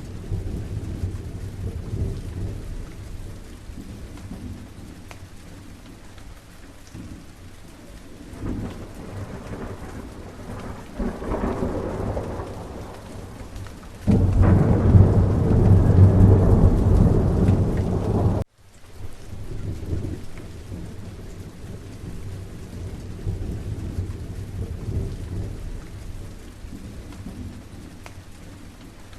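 Steady rain falling, with thunder rumbling. Past the middle a rumble builds into a much louder peal that lasts several seconds and cuts off suddenly, leaving the rain.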